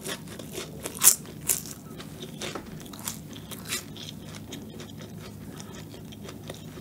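Close-up mouth sounds of someone chewing flaky pastry tart crust: crisp crunches and crackles, loudest about a second in and thinning out in the second half as the bite softens.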